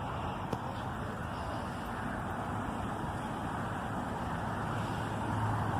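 Steady rumble of cars running at an outdoor car meet, with a single short click about half a second in. A low steady hum comes in near the end.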